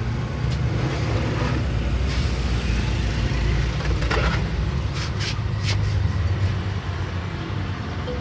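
A steady low engine drone, with a few sharp clicks about halfway through.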